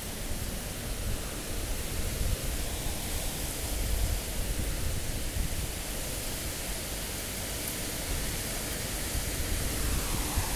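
High wind of Super Cyclone Amphan blowing as a steady rushing noise, swelling in gusts a few seconds in and again near the end, with a low rumble of wind buffeting the phone's microphone.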